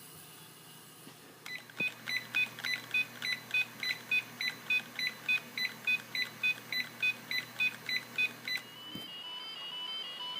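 Old computer beeping: a high electronic beep repeats evenly about three times a second for some seven seconds over a low hum. Near the end it stops with a thump, and a quick tune of short electronic beeps at changing pitches begins.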